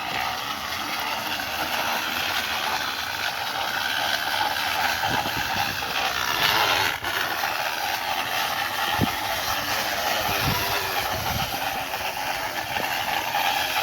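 A small can pressed against a spinning bicycle tyre, rattling steadily with a continuous buzzing noise as the bike is ridden. A few low thumps come in the second half.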